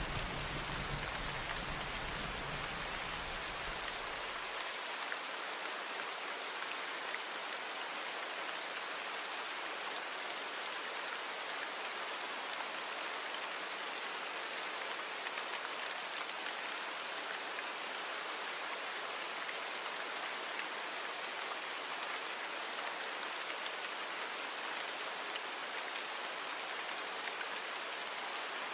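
Steady rain falling, an even hiss of many drops. A low thunder rumble fades out in the first four or five seconds.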